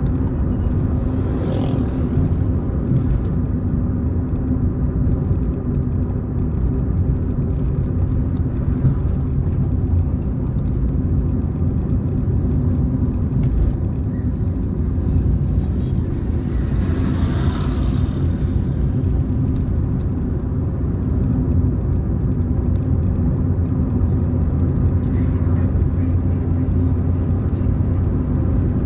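A car driving: a steady low engine hum and road rumble. There are brief rushing swells, a small one near the start and a louder one about halfway through.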